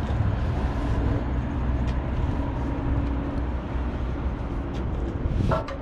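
Steady low rumble of an idling truck engine, with a faint steady hum running through it.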